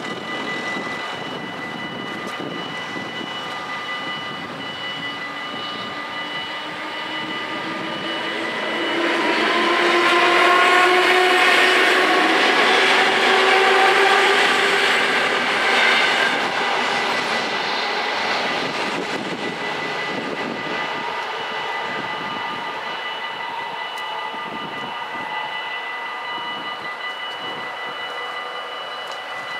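Level-crossing warning bells ring steadily while an NS Mat '64 electric train runs through the crossing. The train's rumble and a whine rising in pitch swell about eight seconds in, are loudest for several seconds, and fade out under the bells.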